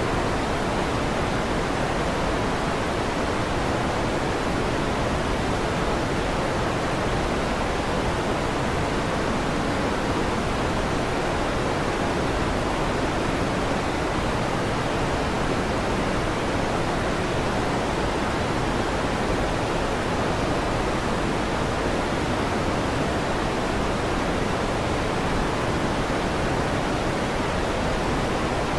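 Steady electric fan noise: an even, unchanging rushing hiss with no thunder claps.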